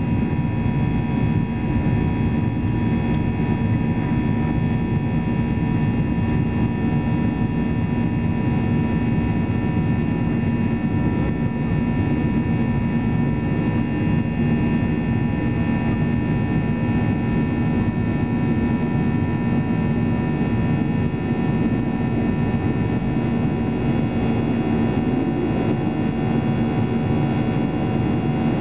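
Steady engine and airflow noise inside the cabin of a Boeing 737-800 in flight, its CFM56 jet engines holding a constant setting, with a few constant hums over the even noise.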